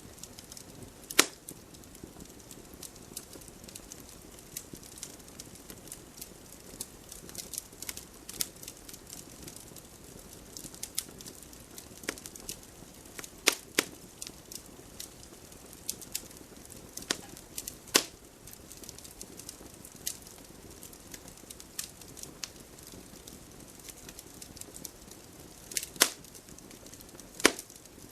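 Campfire crackling: irregular small pops and ticks over a low steady rush, with a handful of much sharper snaps spread through.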